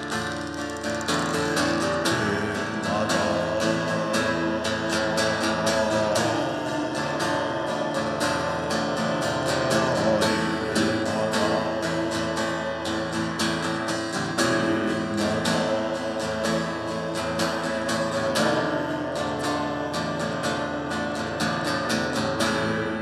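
Acoustic guitar strummed in a steady rhythm, with a melody line over the chords: an instrumental passage of a song played live.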